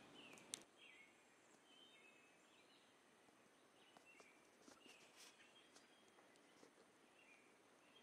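Near-silent woodland with scattered faint bird chirps and a single sharp click about half a second in.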